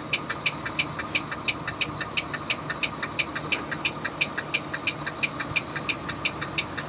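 Semi-truck's diesel engine idling, with a steady ticking about five times a second over a low hum.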